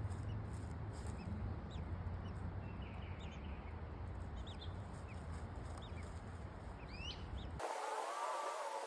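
Birds chirping in short, high calls scattered over a low steady rumble, which cuts off abruptly near the end.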